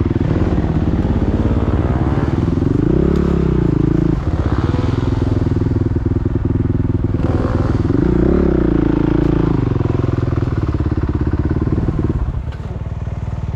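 Motocross dirt bike engine running close by, revved up and back down twice, then settling to a lower, quieter note near the end.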